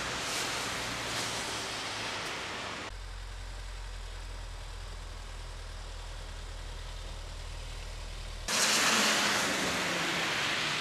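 Wind rushing on the microphone, cutting about three seconds in to the steady low hum of a vehicle engine running, then switching abruptly back to loud wind noise near the end.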